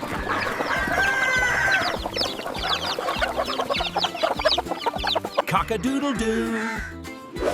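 Cartoon chickens clucking in a rapid run of short calls over background music, with a rooster's "cock-a-doodle-doo" crow near the end.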